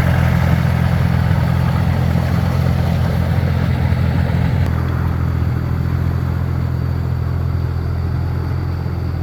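Small agricultural tractor engine running steadily under way, with a rough clatter above its low drone that eases a little about halfway through.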